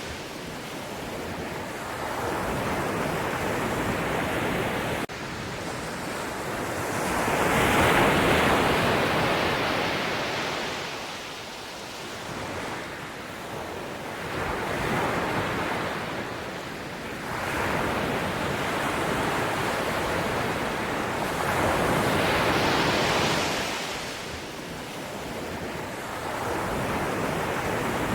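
Sea waves breaking and washing in. The rushing noise swells and ebbs every few seconds and is loudest about eight seconds in, with an abrupt jump in level about five seconds in.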